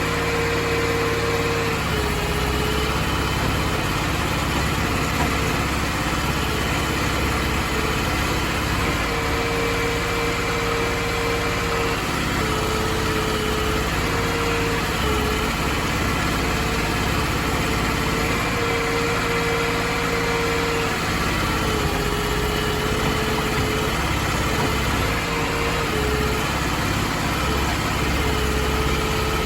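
Crawfish boat's engine running steadily, with a mid-pitched whine over it that breaks off and comes back every few seconds.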